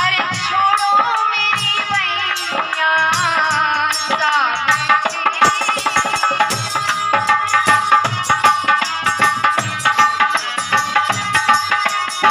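Live Krishna bhajan music: tabla playing a fast, steady rhythm under a sustained melodic instrument, with a gliding melodic line over it for the first few seconds.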